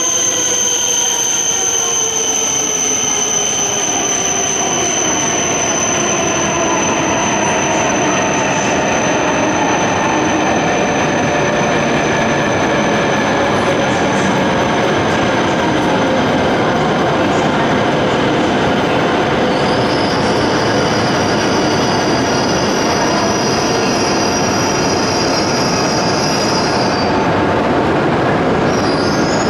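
Shinkansen bullet train running through the station platform, a loud steady rumble with a motor whine that falls slowly in pitch as it slows. A high squeal sounds over it through the first half, and another comes in about two-thirds of the way through.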